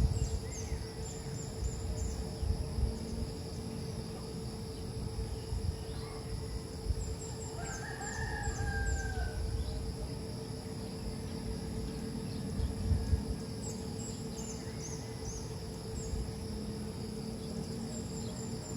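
A rooster crows once, a single drawn-out call about eight seconds in, over steady high insect chirping, a constant hum and a low rumble.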